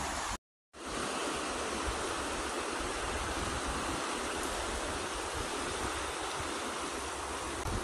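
Flowing creek water, a steady rushing hiss, broken by a brief gap of silence about half a second in.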